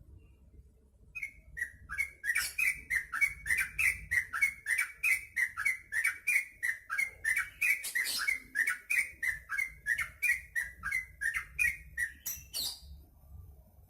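Yellow-vented bulbul calling in a long, fast run of short repeated notes, about three a second, starting about a second in and breaking off near the end.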